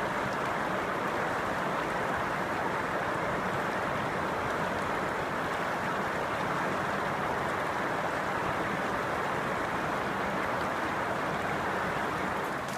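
The Eagle River rushing steadily, a constant full sound of flowing water that drops somewhat lower near the end.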